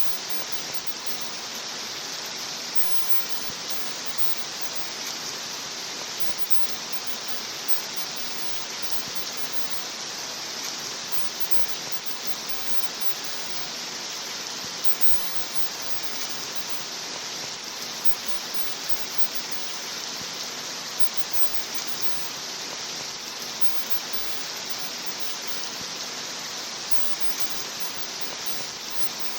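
Steady rain: a dense, even hiss that holds unchanged throughout.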